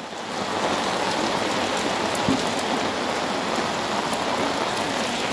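Heavy rain falling steadily, an even hiss that swells over the first half second and then holds.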